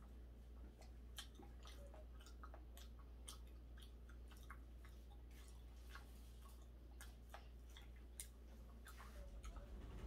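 A person chewing raw hairtail sashimi, faint, with many small scattered mouth clicks over a steady low hum.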